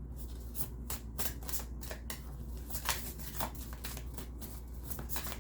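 Tarot cards being shuffled by hand: a run of quick, irregular card slaps and riffles.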